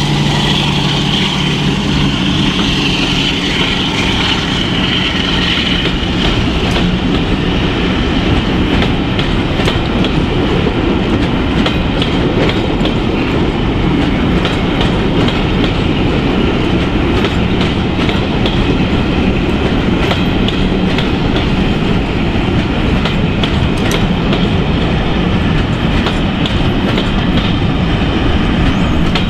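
Loco-hauled passenger coaches rolling past at steady speed, a continuous rumble of wheels on rail with repeated clicks as the wheels cross rail joints. A steady hum in the first few seconds fades away.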